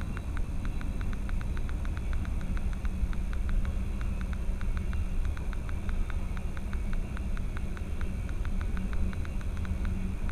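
Steady low vehicle rumble picked up by a dashcam, with a faint hum and a rapid, even ticking of about five clicks a second.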